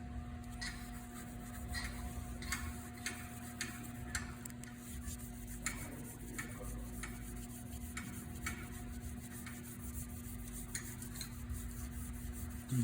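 An ultra-fine abrasive pad scrubbing the inside of a vintage Honda motorcycle's rear brake drum, making a run of short scratchy rubbing strokes, roughly one or two a second. It is deglazing the drum's glazed, corroded braking surface.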